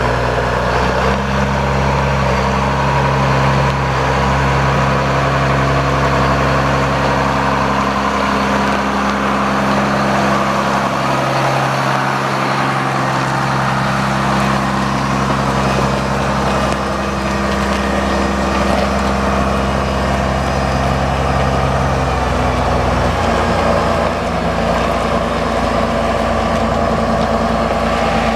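Case 7140 tractor's six-cylinder turbocharged diesel engine running steadily at low speed, its tone shifting about two-thirds of the way through.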